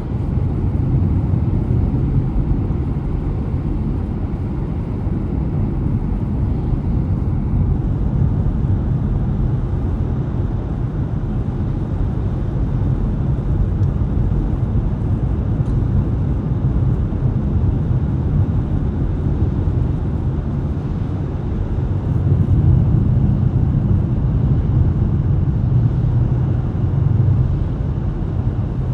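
Car driving on a snowy road: a steady low rumble of tyres and engine, swelling a little near the end.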